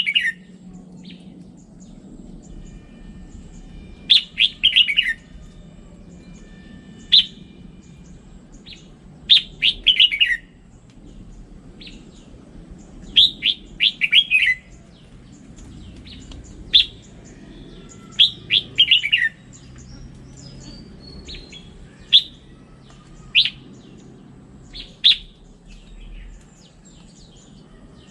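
Red-whiskered bulbul singing: short phrases of quick, clear chirping notes, repeated every two to four seconds, over faint low background noise.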